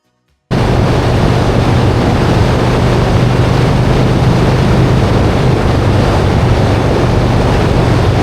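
Motorcycle running at road speed: a steady engine drone under heavy wind rush on the microphone, cutting in suddenly about half a second in.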